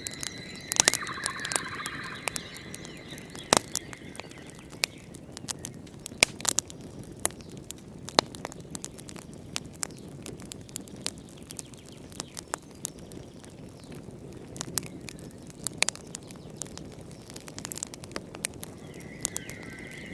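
Fireplace crackling: irregular sharp pops and snaps over a soft low rumble. In the first few seconds a steady high tone and a brief chirp sound along with it, and the tone comes back near the end.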